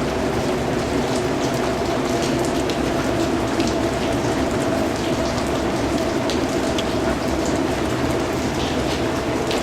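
Steady rain falling, an even hiss with scattered individual drops ticking on top.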